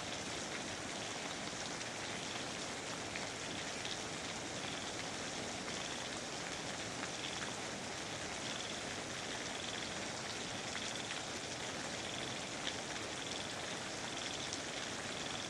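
Steady rainforest rain: an even hiss with scattered sharp drop ticks. A faint high chirp repeats about once a second throughout.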